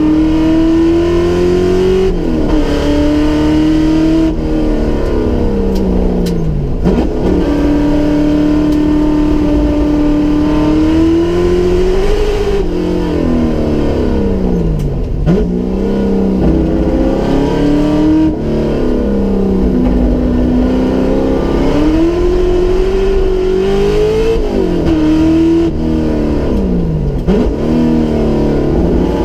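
Holden Torana SLR 5000's 355 V8 heard from inside the cabin under load on a hill climb run, the revs holding steady for stretches and then climbing and dropping sharply again and again, about half a dozen times.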